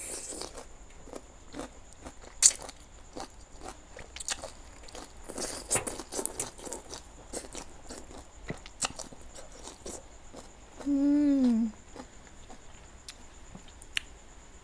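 Close-up chewing and crunching of stir-fried leafy greens: irregular wet crunches, clicks and smacks, with one sharp loud click a couple of seconds in. About 11 s in, a short hummed "mm" falling in pitch.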